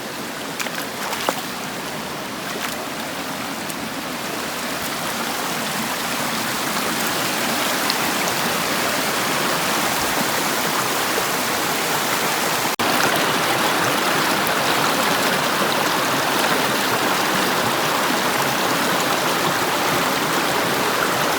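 Rushing stream water over rocky rapids, a steady wash that grows gradually louder and jumps louder about halfway through.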